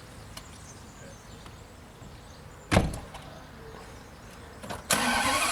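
A car door shuts with a single thump about three seconds in. Near the end a steady whirring noise sets in suddenly: the Ferrari being cranked to start.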